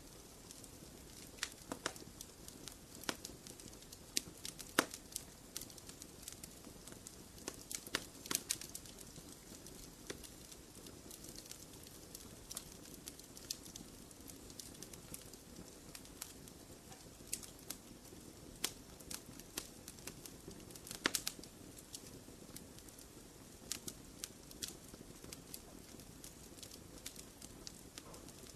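Wood fire burning in a fireplace: a low steady hiss with irregular crackles and sharp pops, a few louder snaps among them.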